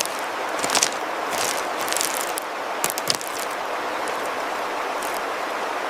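Steady rushing of running stream water, with a few light scrapes and clicks in the first half and once near the end.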